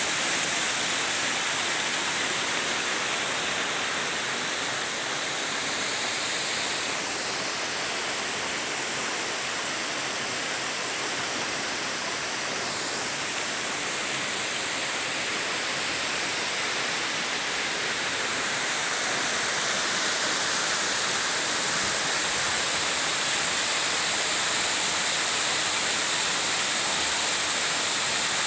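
A 20-metre waterfall: water falling and rushing in a steady, unbroken roar of white noise.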